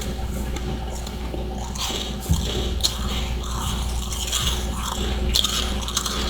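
Freezer frost ice chunks being bitten and chewed: a run of irregular crisp crunches, with one sharper crack a little over two seconds in.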